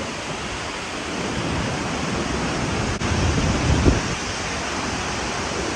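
Steady rushing roar of Ruacana Falls in full flood, heard close to the falls. A brief low thump on the microphone comes near four seconds in.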